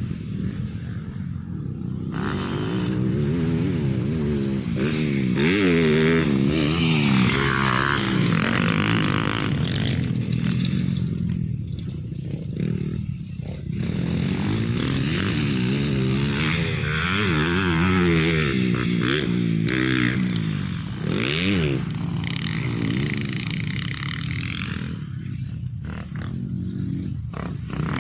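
Motorcycle engine running under changing throttle, its pitch rising and falling again and again as it is revved and eased off, with some rattle and scraping along with it.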